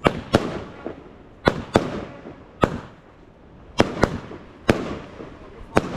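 Fireworks going off: about ten sharp bangs at irregular intervals, several in quick pairs, each trailing off briefly.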